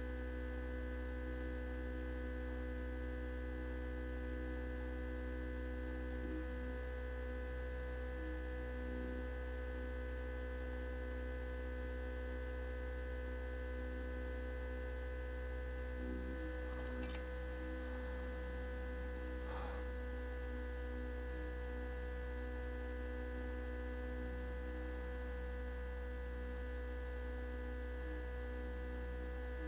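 A steady electrical hum with several constant whining tones above it, unchanging throughout, with a few faint brief noises in the middle.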